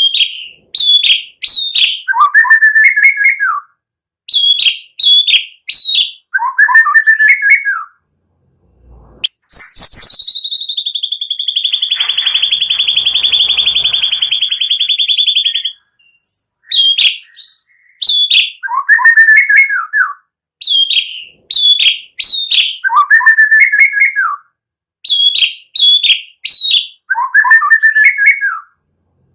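Recorded songs of small songbirds, cililin and prenjak, used as a lure to provoke white-rumped shamas. The loop is a short falling phrase followed by three or four quick high chips, repeated about every four seconds. Near the middle it is broken by one long, rapid, high trill that lasts about six seconds.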